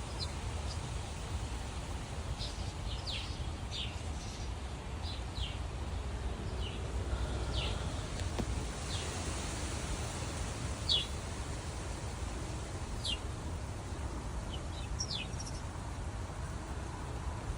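Wind buffeting the microphone in a storm, a steady low rumble, with small birds giving short, high chirps every second or two.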